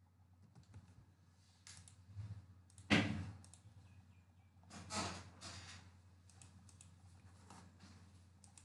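A few scattered clicks and light knocks over a low steady hum, the sharpest about three seconds in and another about five seconds in.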